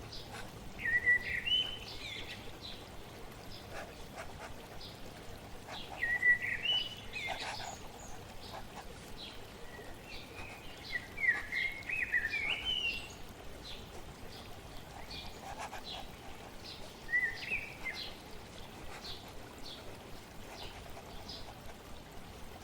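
A songbird singing short rising phrases about four times, over a steady hiss of flowing water. Faint short scratchy ticks of pen on paper are scattered throughout.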